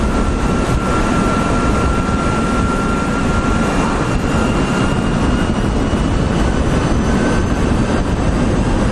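Wind rushing over the microphone of a moving electric motorcycle, a loud, steady roar with a faint thin whine above it; the bike itself makes almost no engine sound.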